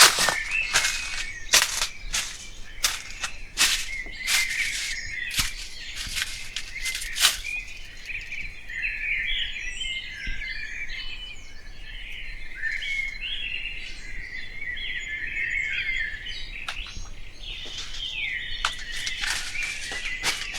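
Birds chirping in many quick short notes, densest from about eight seconds in; during the first seven seconds a run of sharp clicks or knocks sounds over them.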